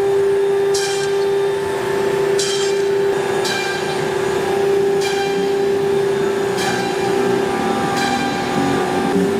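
Cabinet-making CNC router running: a steady spindle tone under cutting noise that swells into a hiss about every second and a half as the tool works through the panel.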